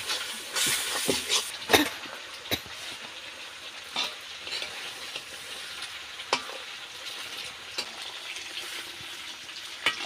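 Curry masala frying and sizzling in a steel wok while a spatula stirs it, with sharp scrapes of the spatula against the metal every second or so, the loudest about two seconds in.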